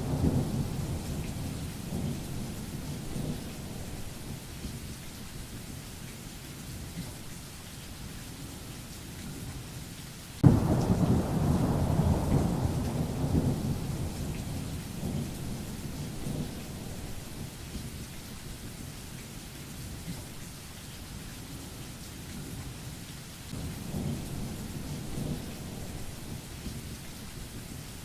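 Thunderstorm: rolling thunder fading at the start, a sudden sharp thunderclap about ten seconds in that rumbles away over several seconds, and a softer rumble near the end, over steady rain.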